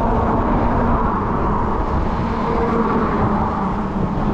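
Wind buffeting the microphone on a moving 20-inch fat-tire e-bike, a steady rushing noise heavy in the lows, with a faint steady hum from the bike running beneath it.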